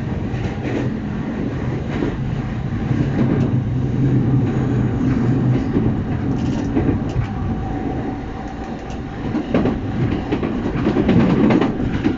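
Electric commuter train running on the rails, with wheels clacking over rail joints and a continuous rumble. A steady low hum fades a little before halfway, and a faint higher tone comes in later.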